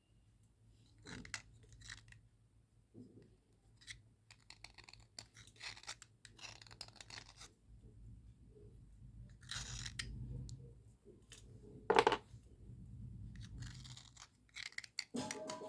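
Cubical slate pencil scraping and scratching across a writing slate in short, irregular dry strokes, with one sharper, louder scrape about twelve seconds in.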